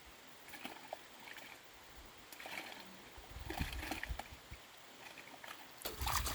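Dry rustling and crackling of rice plants being handled and cut during hand harvesting, in short irregular bursts. Low rumbles a few seconds in and near the end are wind or handling on the microphone.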